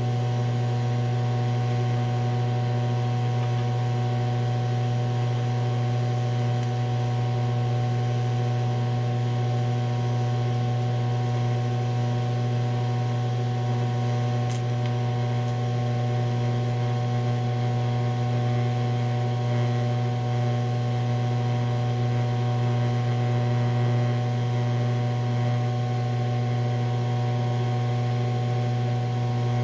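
Steady buzzing hum of a DC electrode-positive TIG welding arc on thick aluminum, with a light hiss, unchanging throughout. A faint tick comes about halfway through.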